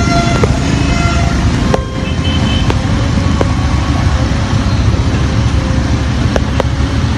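Road traffic noise: a loud, steady low rumble of vehicles, with a few short steady tones and sharp clicks over it.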